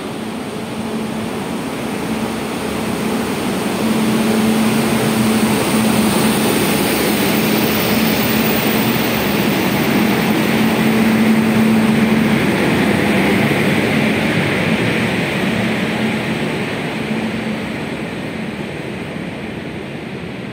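Indian Railways locomotive hauling a long freight train of open box wagons past at close range: a steady hum over the continuous rumble of wheels on rail. It grows loudest as the locomotive goes by about halfway through, then eases off as the wagons roll past.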